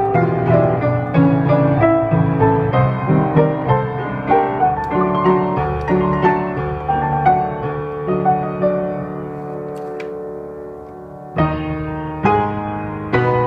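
Solo piano playing a melody over chords. About eight seconds in, a chord is held and slowly dies away, then a loud new chord is struck and the playing goes on.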